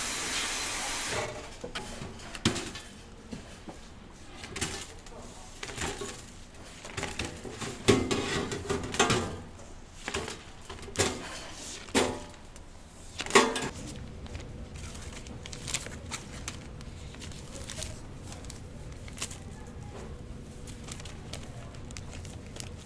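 Kitchen utensils and containers being handled at a food stall, with scattered knocks and clinks over a steady low background hum. A hiss in the first second stops about a second in.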